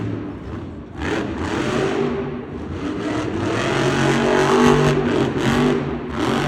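Monster truck's supercharged V8 engine revving hard, the pitch climbing and dropping as the driver works the throttle.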